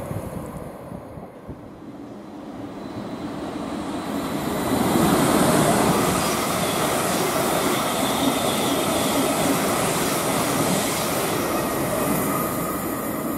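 Thameslink Class 700 Desiro City electric multiple unit passing through the station at speed. The rush of wheels on rail builds from about two seconds in, is loudest from about five seconds and holds there, then eases off near the end.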